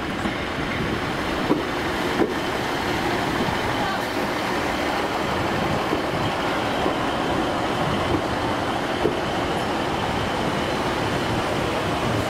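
Northern Class 150 diesel multiple unit moving slowly along the adjacent track, its diesel engines giving a steady running rumble. A few separate wheel clicks over rail joints come about 1.5, 2, 8 and 9 seconds in.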